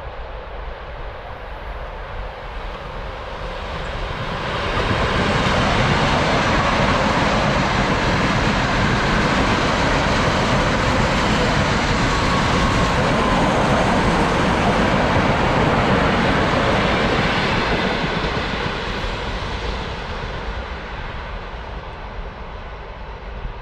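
A train passing by on the line: a rushing noise swells up about four seconds in, holds loud and steady for over ten seconds, then fades away from about eighteen seconds.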